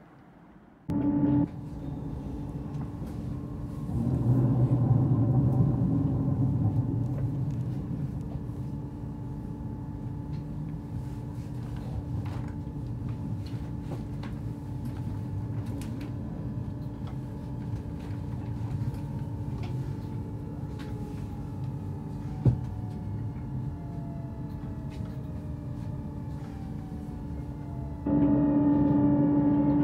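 Inside an MRB Class 1440 (Alstom Coradia Continental) electric multiple unit under way: a steady rumble of wheels on track with a steady drive whine. Over the last several seconds the whine falls in pitch as the train slows into a station, with one sharp knock partway through.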